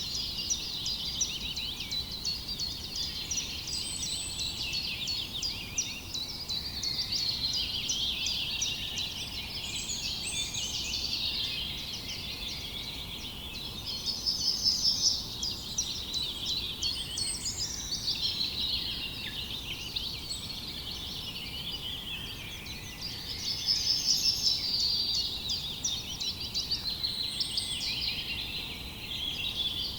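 A chorus of many small birds chirping and trilling at once without pause, with louder bursts of rapid trills about halfway through and again near the end.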